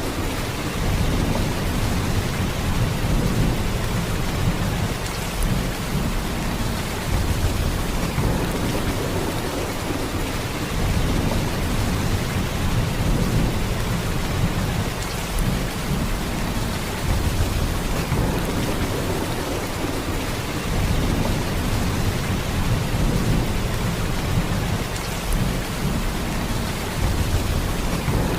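Heavy rain falling steadily, a dense even hiss with a deep low rumble underneath that swells and eases every few seconds.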